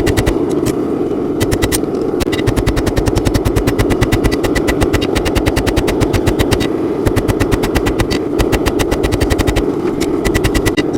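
Rapid, regular hammer blows forging a hot steel drawknife blank, several strikes a second in runs broken by short pauses, with a ring in the metal and a steady low roar underneath.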